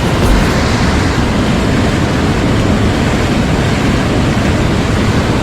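Mountain stream water rushing over rocks, a loud, steady wash of noise.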